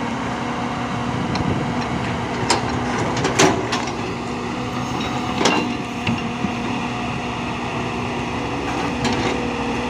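A machine's engine running steadily with a constant hum, with a few sharp knocks or clanks, the loudest about three and a half seconds in.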